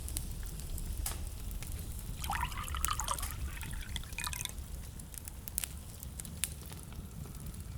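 Wood fire in a fireplace burning with a steady low rumble and scattered sharp crackles. About two seconds in, a burst of wavering, bubbling tones lasts a couple of seconds.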